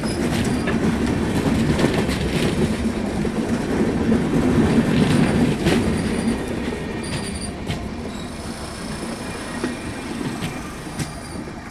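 Express passenger train running past, its wheels clattering over the rail joints with a few brief, thin wheel squeals. The rumble fades away in the second half as the train recedes.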